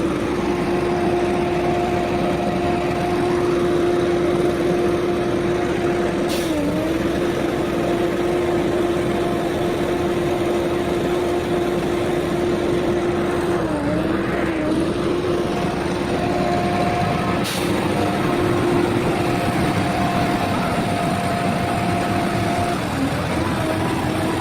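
Heavy dump truck running steadily under load, its drivetrain giving a constant whine whose pitch dips briefly a few times. Two short high hisses, about six seconds in and again near seventeen seconds.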